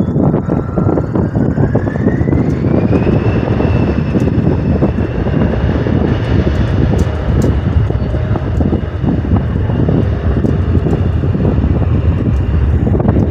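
Airliner jet engines running with a loud, deep rumble, their whine rising in pitch over the first few seconds and then holding steady, as the engines spool up.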